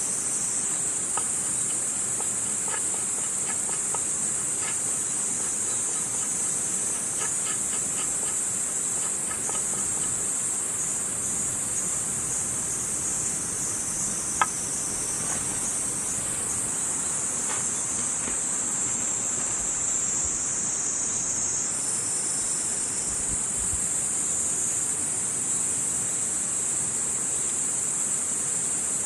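A dense, steady, high-pitched chorus of insects trilling, with small scattered crackles from a wood campfire and one sharper pop about halfway through.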